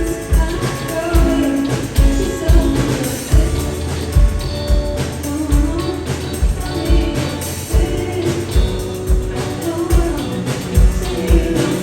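A live band playing a pop song with a singer. A steady kick drum beat runs under the bass, guitar and vocals.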